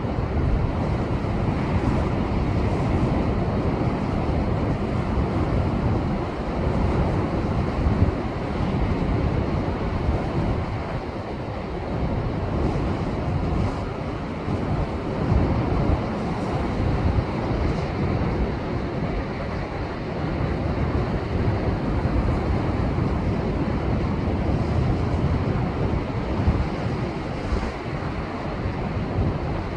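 Heavy surf breaking and surging over a rocky shoreline: the rough sea left after a typhoon. It is a continuous loud wash of noise that swells and eases every few seconds, with wind rumbling on the microphone.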